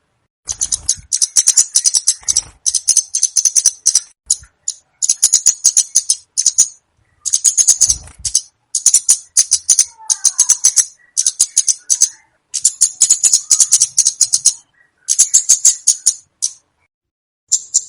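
Komade bird calls: high, dry rattling chatters made of rapid clicks, repeated in about a dozen bursts of around a second with short pauses between.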